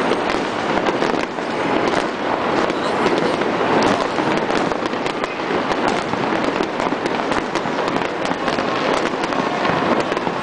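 Fireworks going off: a dense, steady crackle of many small bursts and pops, with no single big bang standing out.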